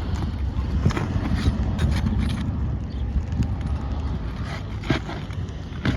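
Scattered clicks and scrapes of asphalt roof shingles being pried and worked loose, over a steady low rumble.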